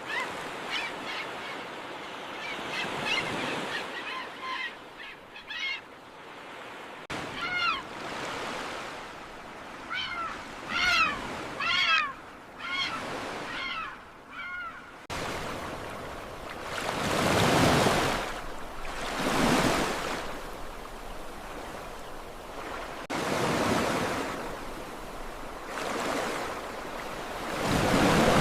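Birds calling in a series of short chirping cries over a background hiss; about halfway through this gives way to sea waves surging and breaking, swell after swell.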